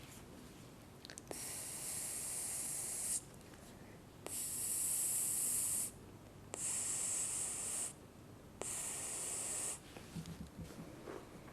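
Spray can hissing in four separate bursts of about one to one and a half seconds each, every burst starting with a click, followed by a few soft taps near the end.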